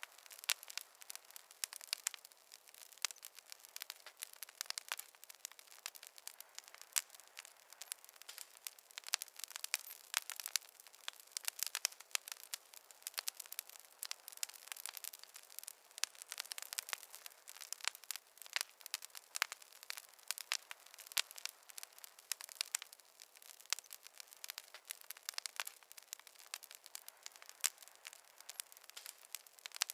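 Wood fire crackling in a fireplace: a dense, irregular run of small pops and snaps over a faint hiss, with no low rumble.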